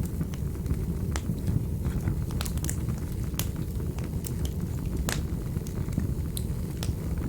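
Wood fire burning in a fireplace: a steady low roar of flames with scattered sharp crackles and pops from the burning logs.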